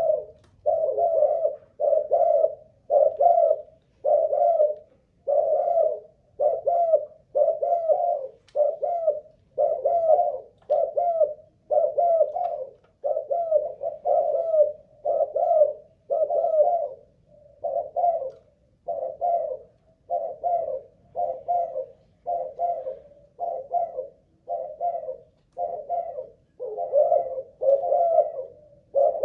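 Spotted dove of the Malaysian cooing strain cooing without a break, one phrase after another at about one a second, a sign of its cooing stamina.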